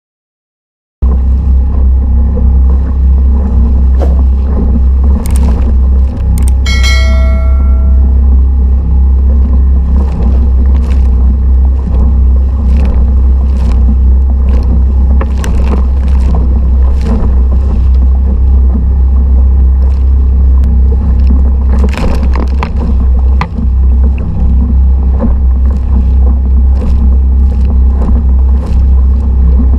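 Mercury 3.5 hp outboard motor running steadily at constant throttle, a loud low drone that cuts in abruptly about a second in. Scattered knocks and taps sound over it, and a brief metallic ring about seven seconds in.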